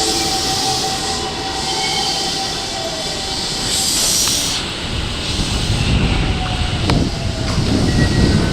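Toei 5300-series eight-car electric train pulling in and braking at the platform: a steady whine fades away, a burst of air hiss comes about four seconds in, then a low rumbling follows.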